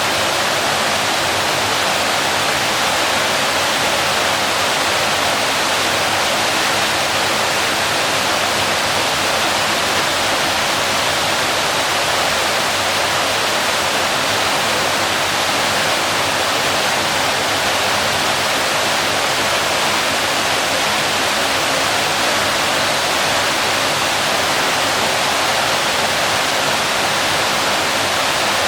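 Waterfall: water falling and splashing in a steady, loud, even rush with no changes.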